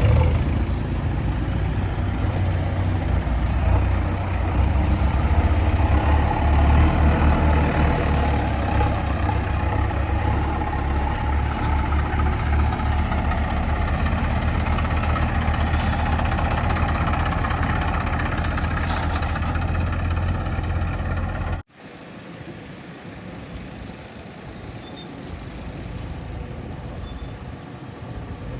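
Heavy diesel engine running steadily close by, strong and low, then a sudden cut about three-quarters of the way through to a quieter, more distant vehicle engine.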